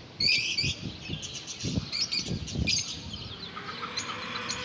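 Small cage birds chirping, with a loud burst of high chirps just after the start and fainter scattered chirps after it. A few soft low thumps come in the middle.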